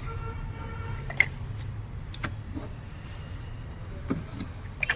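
Scattered clicks and knocks from ignition coils and their connectors being handled and swapped between cylinders on a car engine, over a steady low rumble.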